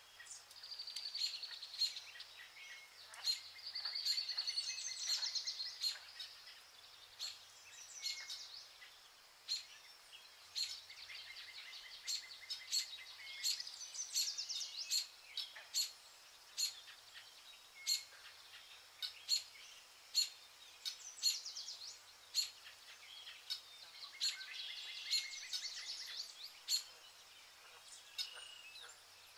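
Several songbirds singing and calling: rapid trills and warbling phrases mixed with many short, sharp chip notes, over a faint steady hiss.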